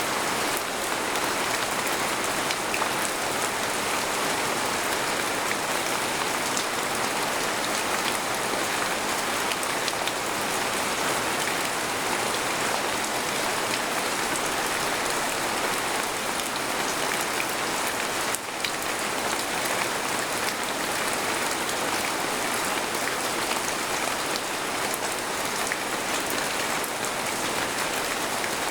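Steady heavy rain falling on a tent, a dense hiss of many fine drop ticks, with a brief dip in level about eighteen seconds in.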